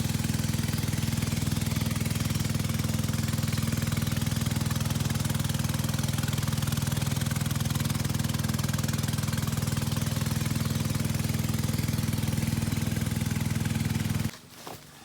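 Motor of a small wooden river boat running steadily at one speed, with a constant low hum and a hiss over it. It cuts off suddenly near the end, leaving a few faint clicks and rustles.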